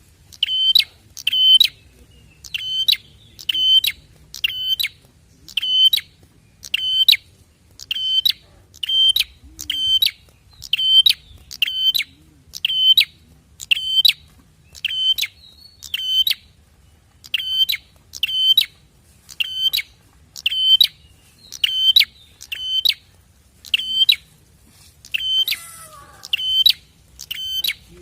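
Bar-winged prinia (prenjak) calling: a steady run of sharp, high, evenly repeated chirps in pairs, about one pair a second, played as a lure to set other prenjak calling.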